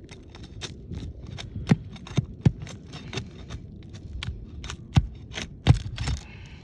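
Asphalt shingle being separated from the shingle beneath it: an irregular run of sharp cracks and snaps as the sealant bond and the brittle shingle give way, with several louder snaps in the middle of the stretch.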